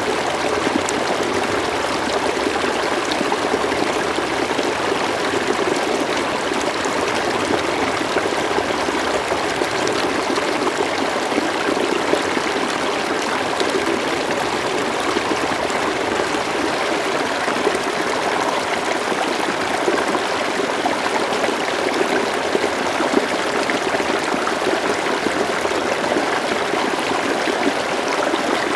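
River water flowing and babbling steadily, an even rushing with fine gurgles and no pauses.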